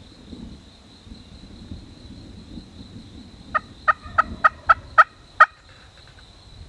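A turkey yelping: a series of seven short, evenly spaced notes, about three a second, starting about halfway through, over a steady faint high-pitched tone.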